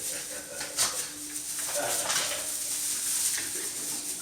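Norwegian Elkhound puppies scuffling in a play-fight: scratchy rustling and scrabbling, a sharp knock a little under a second in, and a short pitched growl or yelp about two seconds in.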